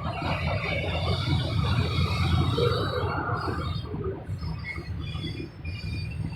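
Long freight train rolling past: a steady low rumble and the clatter of railcars going by, with short high-pitched wheel squeals now and then.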